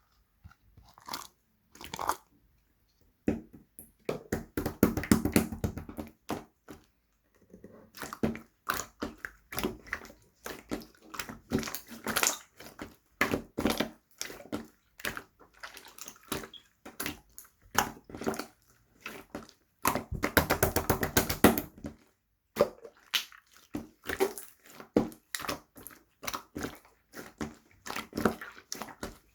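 Slime being squeezed, poked and stretched by hand, making wet, crackly clicks and pops. The pops come in irregular runs, densest around five seconds in and again about twenty seconds in.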